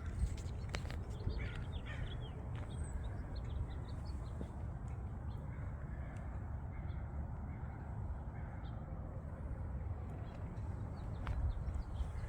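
Birds calling faintly over a steady low rumble, with a couple of sharp clicks near the start.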